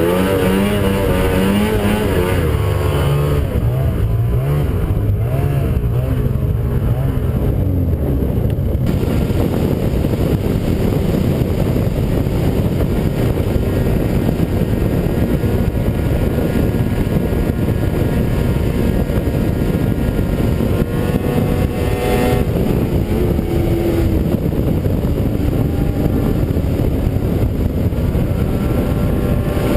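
Ski-Doo 600 two-stroke snowmobile engine running at speed, its pitch wavering with the throttle. A steady rushing noise partly buries it through the middle stretch.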